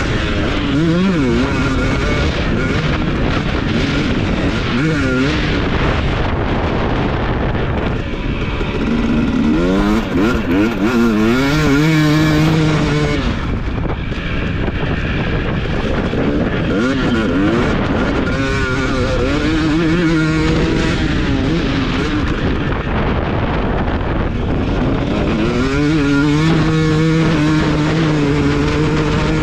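Husqvarna TC250 motocross bike's engine revving hard, the pitch climbing and dropping again and again as the throttle is opened and shut, with several long rising pulls.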